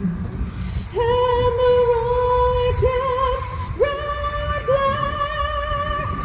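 A woman singing the national anthem solo, holding long notes with vibrato, starting about a second in. A steady low rumble runs underneath.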